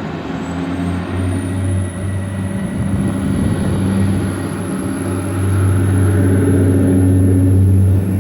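A train passing or approaching, its engine giving a steady low drone that grows louder over the first five seconds, with a thin high whine that rises over the first two seconds and then holds steady.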